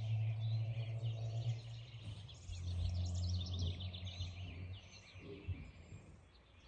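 Small birds chirping and twittering in a dense chorus, over a low steady hum that is the loudest sound for the first two-thirds and stops a little before the end.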